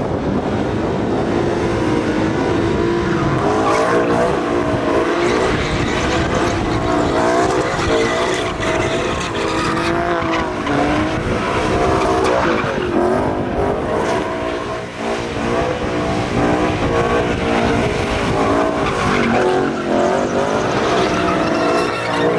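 Car tires squealing continuously with a wavering pitch, over revving car engines.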